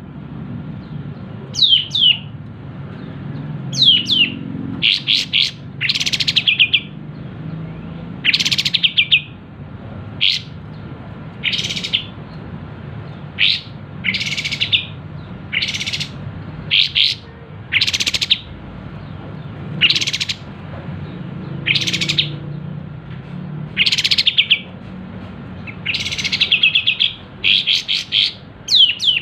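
Kapas tembak bulbul calling loudly and repeatedly: short, sharp chirps every second or two, some sliding down in pitch and some broken into quick rattling notes.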